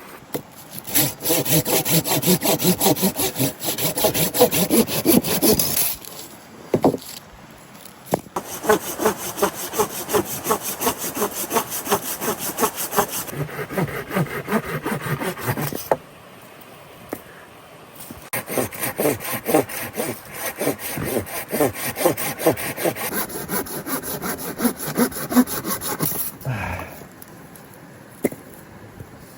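Hand saw cutting wood in quick back-and-forth strokes, in three spells with short pauses between.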